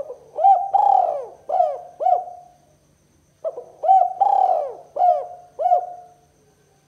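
Spotted dove (tekukur) cooing in the 'kuk 2' call style: two phrases of about five arching coo notes each, the second phrase beginning about three and a half seconds in.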